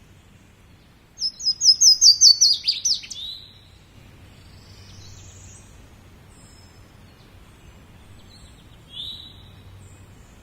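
A songbird singing: a fast, loud run of about ten high notes about a second in, ending in a falling flourish, then fainter scattered calls and one short falling call near the end. A faint steady low hum lies beneath.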